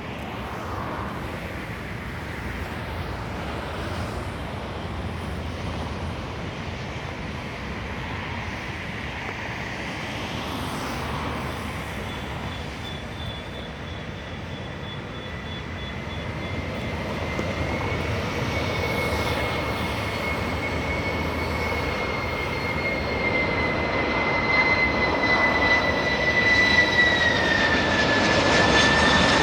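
Boeing 747-400 freighter's engines on approach to land, a steady roar growing louder as the jet comes closer. A high engine whine joins it in the second half and slides down in pitch near the end as the aircraft passes.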